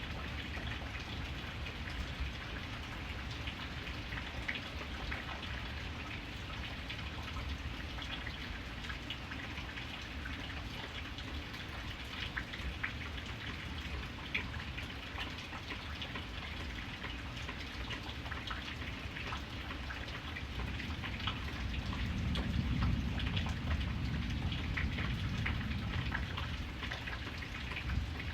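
Steady rain, with many individual drops heard as sharp ticks against a constant hiss. A low rumble swells for several seconds in the second half.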